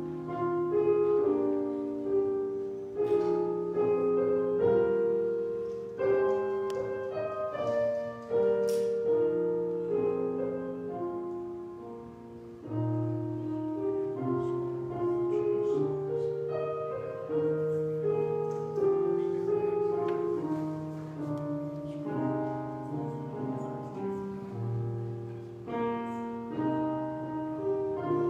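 Piano playing a slow church prelude: chords struck and held, changing about once a second over a moving bass line.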